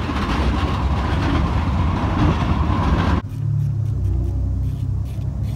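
Car noise: a loud rushing sound for about three seconds, then an abrupt change to a car engine running with a steady low hum and faint ticking.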